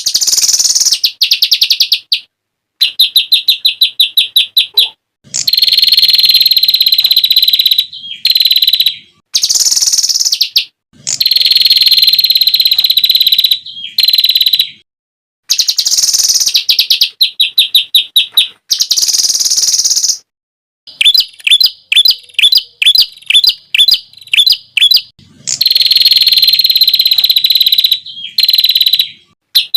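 Edited songbird training recording of loud, rapid-fire 'tembakan' song phrases: bursts of fast repeated high notes, each phrase cut off sharply and followed by a short gap. Partway through, a run of slower, sharp upswept notes comes at about three a second.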